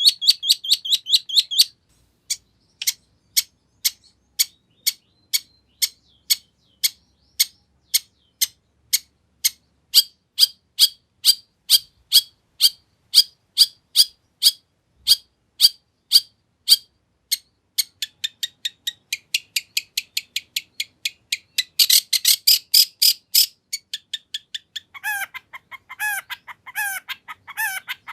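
Long-tailed shrike singing: a long run of sharp, high chip notes at about two a second, then a dense scratchy burst, and near the end a lower, quicker run of cluck-like notes.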